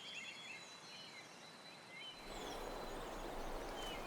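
Faint outdoor forest ambience: a few short, scattered bird chirps over a thin steady high tone, with a fuller background hiss coming in about two seconds in.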